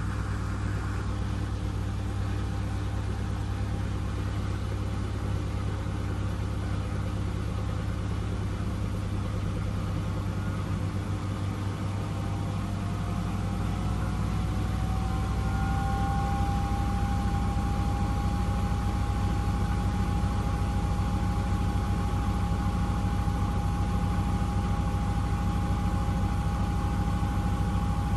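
Miele W1 washing machine running with a steady low hum; about ten seconds in, its motor whine rises in pitch as the drum speeds up, then holds at a steady, slightly louder whine.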